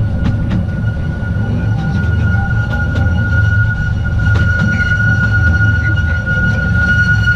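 Narrow-gauge mountain train running, heard from on board: a steady low rumble of wheels on rail with scattered clicks over the track. A thin high-pitched tone runs throughout and grows louder about halfway through.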